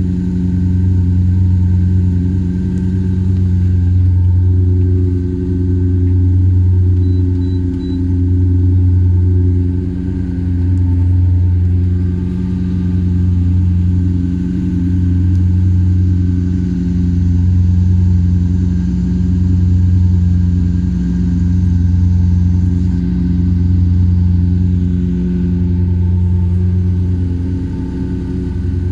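Opel Astra's exhaust running steadily at constant revs: a deep, loud drone that swells and fades evenly about every two seconds.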